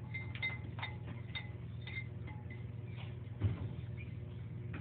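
A fork clinking against a bowl as eggs are stirred: a string of light ringing taps, irregular, roughly one or two a second, with a single dull thump about three and a half seconds in.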